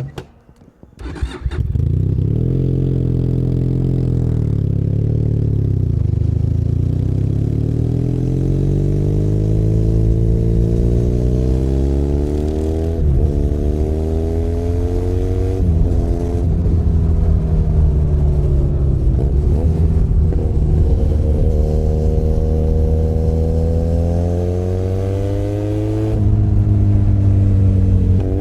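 Benelli Leoncino 500 Trail's 500 cc parallel-twin engine starts up about a second and a half in, then runs as the bike rides off. Its pitch climbs steadily under throttle and drops sharply several times at the gear changes.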